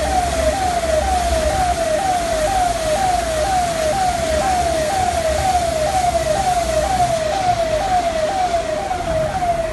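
Siren sounding a fast repeating falling tone, about two sweeps a second, over a steady hiss and low rumble.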